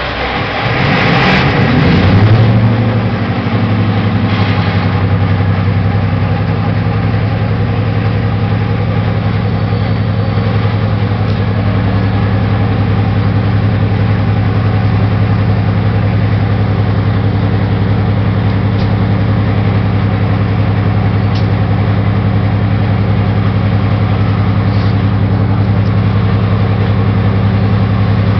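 Napier Deltic opposed-piston two-stroke diesel engine of a Class 55 Deltic locomotive starting up: it catches and its revs climb over the first two seconds or so, then it settles into a steady idle.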